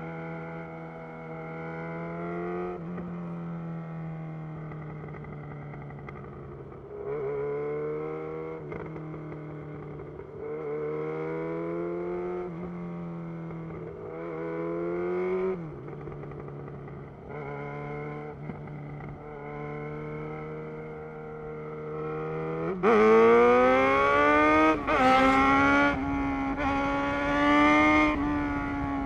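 2011 Yamaha XJ6's inline-four engine through a Black Widow full exhaust system, cruising with the pitch rising and falling gently as the throttle rolls on and off. Near the end it opens up hard: loud, the pitch climbing steeply, with brief breaks as it shifts up.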